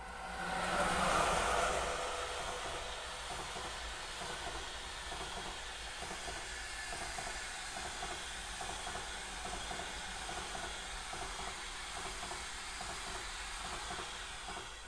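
Passenger express train passing on a nearby track: its noise swells sharply and is loudest about a second in as the locomotive goes by, then holds as a steady rush of the coaches rolling past, dropping away at the very end.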